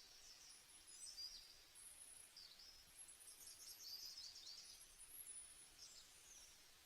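Faint birdsong: scattered high chirps and short twittering trills over a quiet hiss, busiest around the middle.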